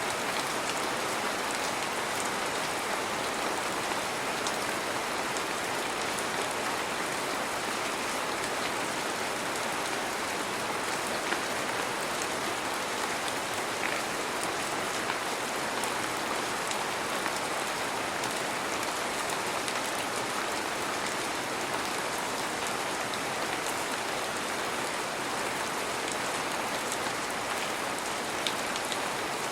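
Heavy rain falling steadily, a continuous even hiss with faint scattered drop ticks.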